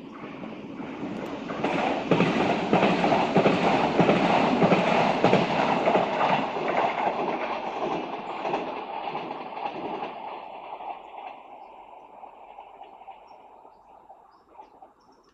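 A Renfe train passing by, its wheels clattering rapidly over the rail joints. It builds up over about two seconds, is loud for several seconds, then fades away.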